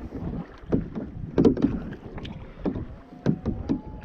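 Canoe paddling: paddles dipping and splashing in the water, with irregular sharp knocks and splashes every fraction of a second, over a low rumble of wind on the microphone.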